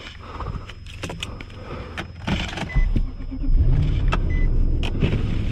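Clicks and knocks of handling inside a vehicle. About halfway through, a vehicle engine starts and settles into a steady low running note. Short high beeps sound twice after it starts.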